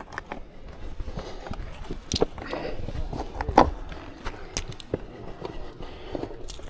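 Hikers' footsteps and scrambling on rock: irregular scuffs, scrapes and knocks, the sharpest knock about three and a half seconds in.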